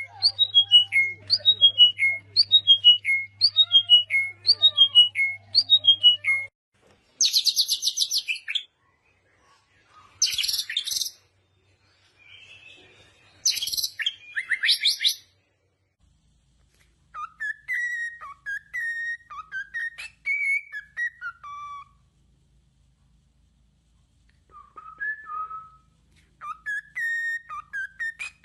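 Songbirds calling, in several different calls with sudden breaks between them. First comes a quick series of repeated falling chirps, about one phrase a second, which stops abruptly. Then three short harsh, buzzy calls, followed later by clear whistled notes in short phrases.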